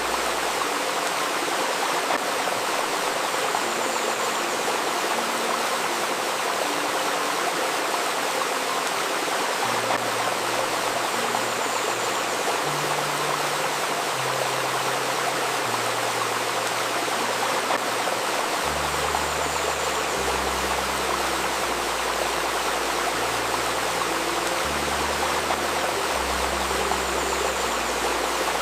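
A river babbling steadily, with soft, low held synthesizer notes that change slowly underneath.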